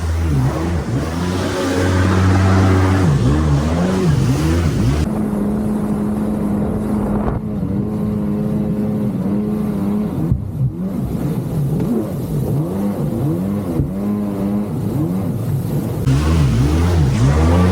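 Jet ski engine running at speed, its pitch rising and falling again and again as the throttle and load change, with a rushing hiss of wind and spray in the first few seconds and near the end.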